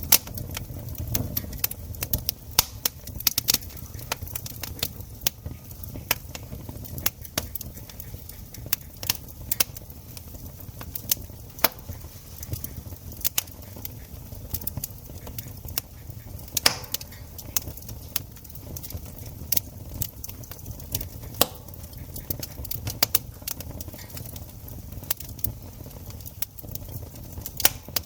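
Wood campfire crackling and popping, with irregular sharp snaps over a steady low rumble of the flames.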